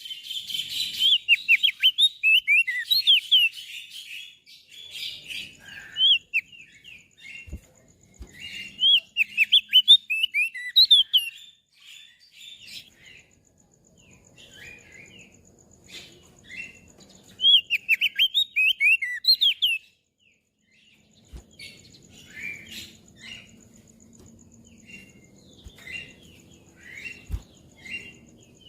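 Crested white-eye (opior jambul) singing: bursts of rapid, high twittering chirps, with softer scattered chirps between them. The song breaks off briefly about twenty seconds in.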